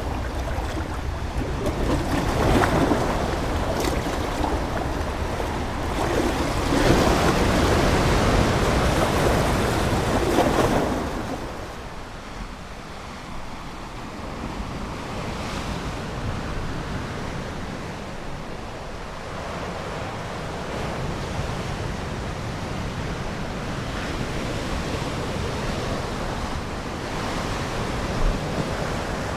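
Ocean waves breaking and washing ashore, two louder surges in the first ten seconds, then a softer, steady wash.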